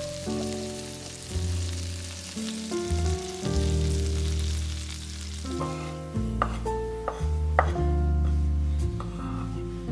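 Food frying and sizzling in a pan, a steady hiss that thins out after about six seconds, under background music with a walking bass line.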